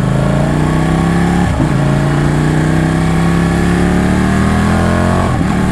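Ducati Panigale 899's L-twin engine pulling hard under acceleration. Its pitch climbs, drops about a second and a half in as it shifts up, then climbs again more slowly until another shift near the end.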